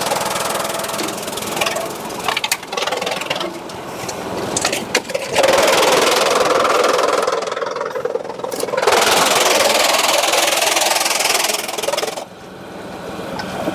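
Sawmill machinery running, with scattered knocks in the first few seconds, then two loud stretches of harsh machine noise, about two and three and a half seconds long, the second cutting off suddenly near the end.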